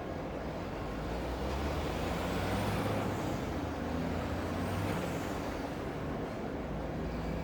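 Steady city ambience of low rumble and hiss that swells as a vehicle passes, loudest a few seconds in, with a faint high whine that rises and falls.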